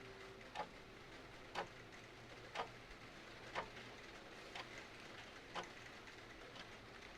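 Clock ticking steadily about once a second over a soft, steady hiss of rain.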